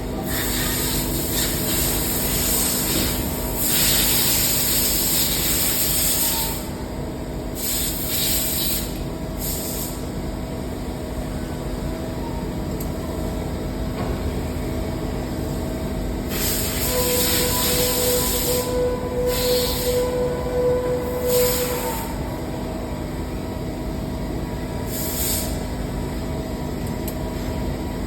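Machine-shop machinery running with a steady hum, broken by several bursts of hissing. In the second half a steady whine sounds for a few seconds.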